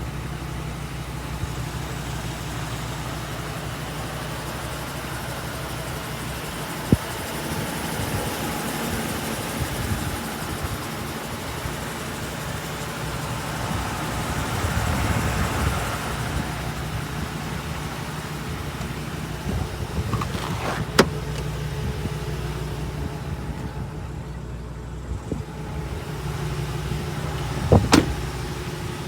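Ford 6.8L V10 gasoline engine idling steadily, with a few sharp clicks over it, the last a quick double.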